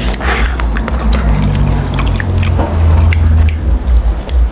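Close-up chewing and biting of crispy breaded fried chicken: wet mouth squishes with many quick crunchy clicks, over a low hum.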